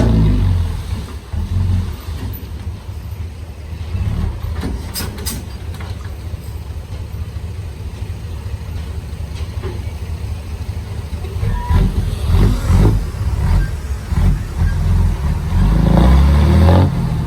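Heavy diesel earthmoving engine working under load, a low steady rumble that eases after the first second, then revs up and grows louder from about twelve seconds in, peaking near the end. A few short clicks come about five seconds in.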